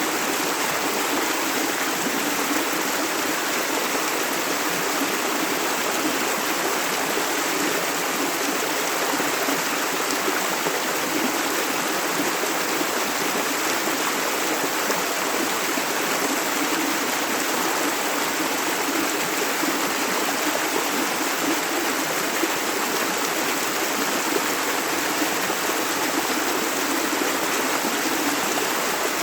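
Clear river water flowing over stones, a steady rushing and babbling with no change in strength.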